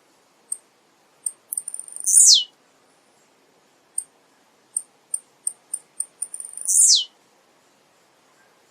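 Male blue-black grassquit (tiziu) singing: a run of short, very high ticks, then a loud note sweeping steeply downward. The song comes twice, about four and a half seconds apart.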